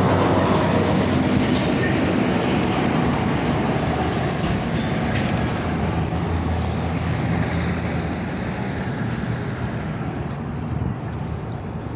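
Train running past, its noise slowly fading as it draws away.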